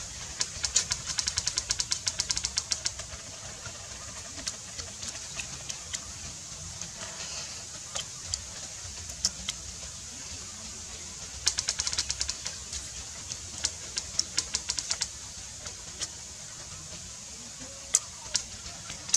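Close-up chewing and lip-smacking of grilled meat eaten off the bone: fast runs of wet smacks, one at the start and another about halfway through, with scattered single smacks between, over a steady high hiss.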